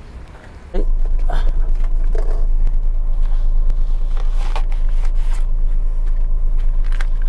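Toyota Raum's 1500 cc engine idling steadily, coming in suddenly about a second in, with a few light knocks and clicks over it.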